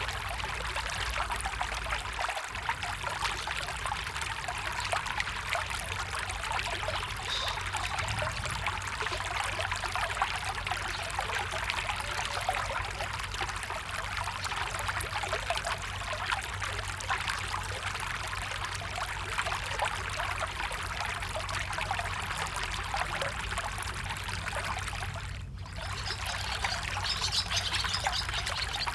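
Small stream trickling and babbling steadily. After a brief dip about 25 seconds in, the water sounds brighter.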